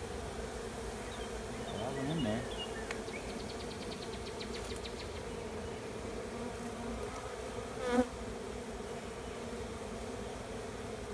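Honey bee swarm humming steadily around a hive entrance, where bees are fanning as the swarm moves in, with a bee buzzing close past, rising and falling in pitch, about two seconds in. A faint rapid high trill of ticks runs around the middle, and a brief sharp call, the loudest sound, comes about eight seconds in.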